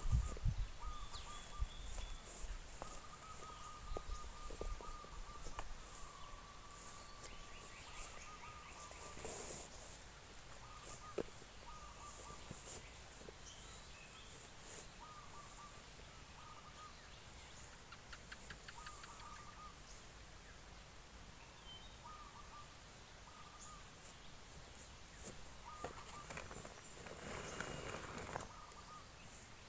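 Rural outdoor ambience with a bird repeating a short whistled note over and over. Brief rustling noises come about a third of the way in and again near the end.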